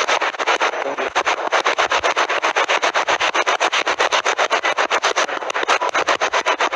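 Spirit box sweeping through radio frequencies: choppy static chopped into short, even pulses several times a second.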